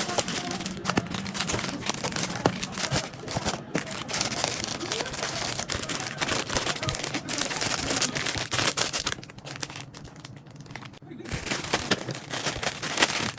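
Plastic packaging crinkling and rustling as it is handled, with small knocks and clicks. It eases off briefly about two-thirds of the way through, then picks up again.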